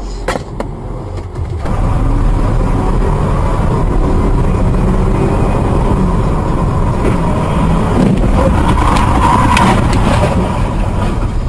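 Car driving: steady engine and road noise. Two sharp clicks come in the first second, and the noise grows louder and stays level from about two seconds in.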